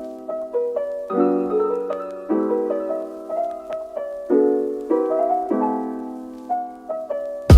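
Soft instrumental piano music, chords struck about once a second and each left to fade. A sharp knock right at the very end.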